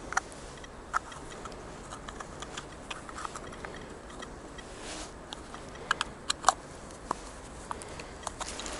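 Scattered small clicks and taps, with a few sharper ones about six seconds in, over a steady faint rush of background noise.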